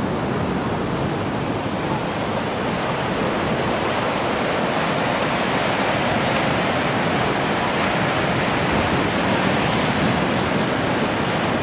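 Ocean surf breaking on shoreline rocks below a bluff: a steady rushing wash of waves that swells somewhat toward the middle and later part.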